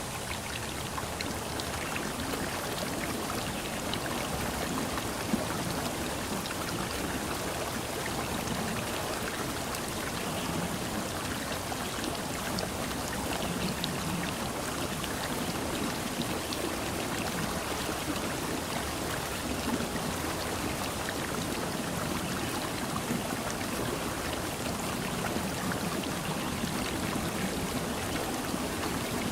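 Steady rush of water with many small drips and patters throughout.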